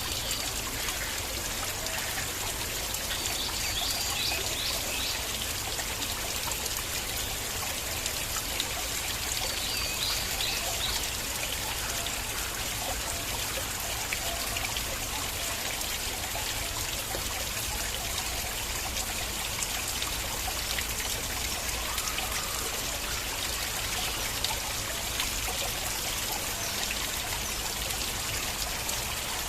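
Shallow stream flowing steadily, water trickling and splashing over rocks. A few short high chirps, like a bird's, come in about four seconds in and again near ten seconds.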